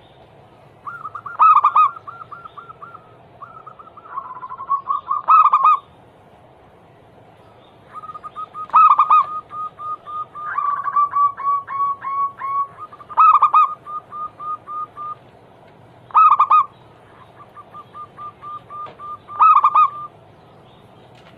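Zebra doves (perkutut) singing their cooing song. About six phrases, each a loud accented coo followed by a quick run of short rhythmic coos. Near the middle, two birds' runs overlap.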